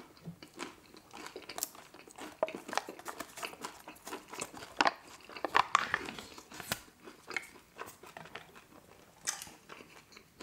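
Close-miked chewing of crispy buffalo chicken wings, mouth sounds with many small crunches and clicks. Around the middle, sharper plastic crackles as a lid is pried off a small cup of buffalo dipping sauce.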